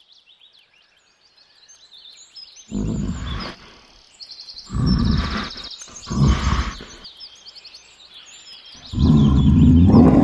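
A big cat roaring four times in deep, rough calls about a second long each, with a pause between them. Birds chirp and trill in the background throughout.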